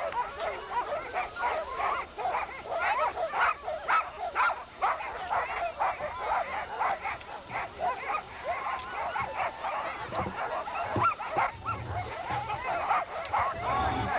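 Many sled dogs barking and yelping together in a steady, overlapping chorus, with a low rumble coming in near the end.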